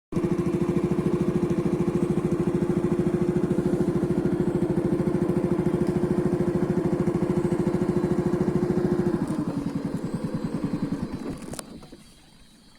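Small motorboat engine running steadily with a fast putter. Its pitch drops about nine seconds in, as it slows, and it fades away shortly after.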